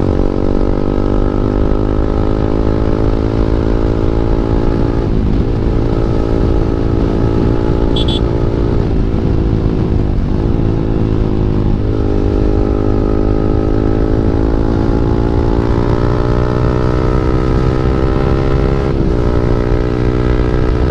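KTM Duke 390's single-cylinder engine through an Akrapovic exhaust without its dB killer, running loud and steady under way; its pitch dips briefly about four times and climbs slowly in between. A brief high chirp sounds about eight seconds in.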